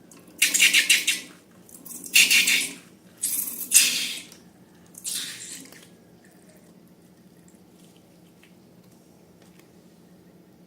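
Liquid squirting and spluttering out in four short bursts over the first six seconds, then only faint background hum.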